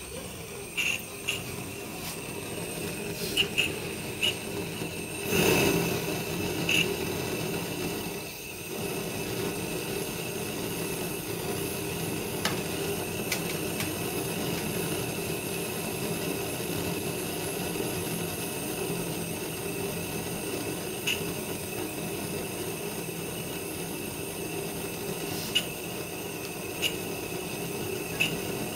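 A soldering torch burning with a steady hiss while tools click and tap against the pipe now and then, with a louder swell about five seconds in.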